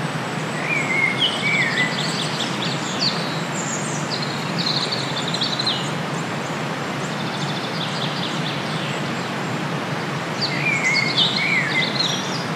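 Steady outdoor wind noise with a small bird singing short chirping phrases, clearest about a second in, between about three and six seconds in, and again near the end.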